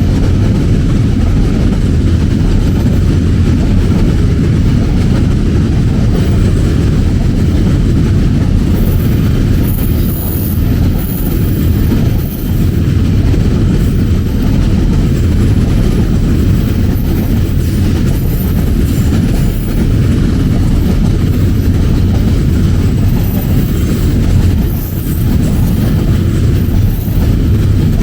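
A train rolling past close by, a steady heavy rumble of wheels on rail. High-pitched wheel squeal comes in from about a third of the way through.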